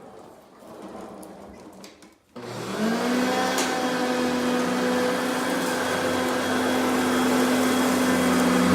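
Hoover Concept vacuum cleaner switched on about two seconds in after a few faint clicks, its motor spinning up with a short rising whine and then running steadily.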